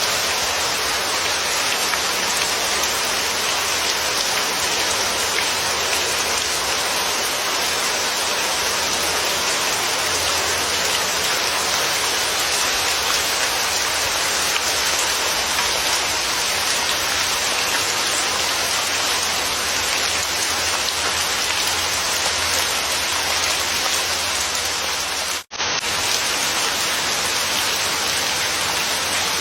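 Steady, even rain. It cuts out for a split second once, near the end.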